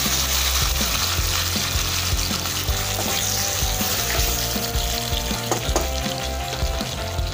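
Boiled mango pieces sizzling in hot vegetable oil in a frying pan over a tempering of chilli, black mustard seeds and panch phoron. The sizzle eases slightly after a few seconds, and there are a couple of knocks about five and a half seconds in.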